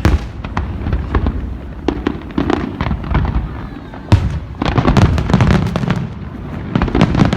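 Aerial fireworks bursting in a rapid, irregular series of bangs and cracks over a low rumble. A loud bang about four seconds in is followed by a dense run of crackling reports.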